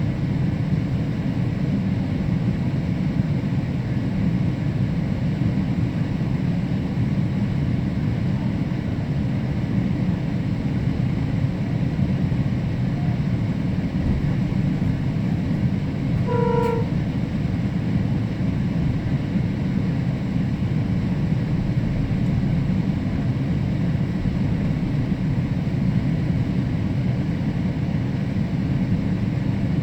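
GO Transit commuter train running, a steady low rumble heard from on board, with one short horn toot of several notes a little past halfway.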